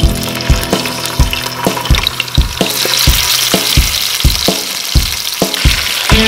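BBQ-sauced chicken wings sizzling as they flash-fry in a shallow pan of hot oil, the hiss thickening about halfway through as more wings go in. A regular beat of thumps, a few a second, runs underneath.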